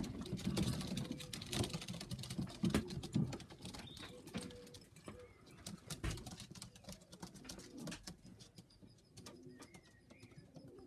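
Pigeons cooing, with many small clicks and taps; the clicks are busiest in the first half and thin out toward the end.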